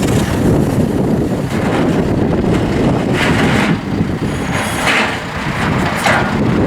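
John Deere 5100E tractor's four-cylinder turbo diesel engine running steadily, with three short rushes of higher-pitched noise over it.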